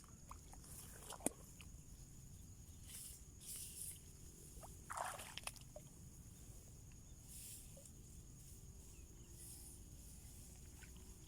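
Near silence outdoors, broken by one sharp click about a second in and a brief rustling noise about five seconds in.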